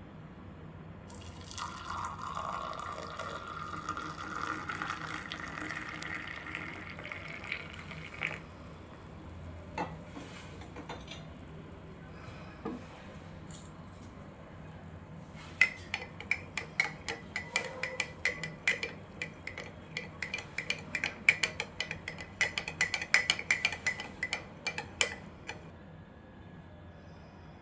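Water pouring into a container, its pitch rising as the vessel fills. Later comes a long run of quick, sharp clinks and knocks with a metallic ring.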